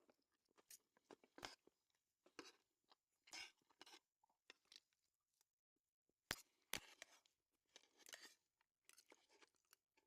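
Faint sounds of people eating: chewing and soft, irregular crunches with scattered sharp clicks, the loudest a pair of clicks about six seconds in.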